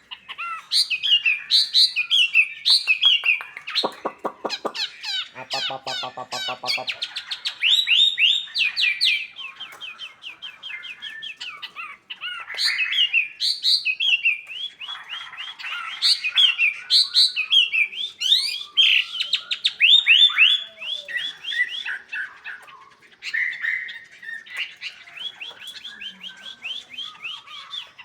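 A local wambi songbird singing fiercely in fast, dense volleys of sharp chirps and rattling trills, the agitated "konslet" style. Lower, hoarser calls break in for a few seconds near the start.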